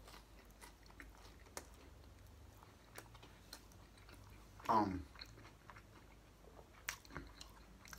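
A person chewing a mouthful of French bread pizza with the mouth closed: faint, scattered clicks and crunches of the crust. About five seconds in, a short vocal sound falls in pitch.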